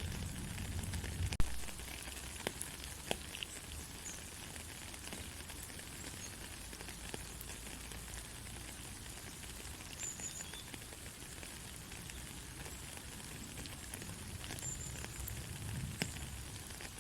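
Soft, steady rain hissing, with scattered sharp drop ticks; one louder tap comes about a second and a half in.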